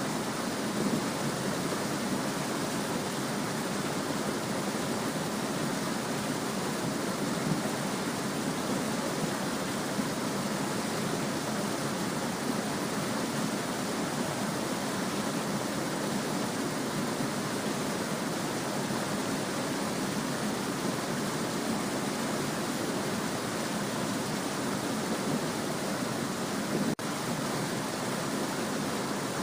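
Small stream babbling: a steady, even rush of flowing water.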